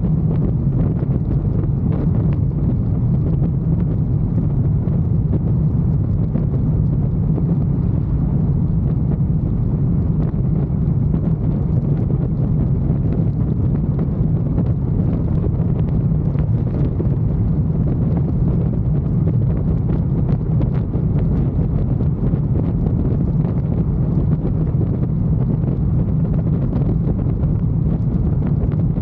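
Motorcycle engine running steadily under way, mixed with wind rushing over the microphone; the sound is a low, even drone that holds without changing.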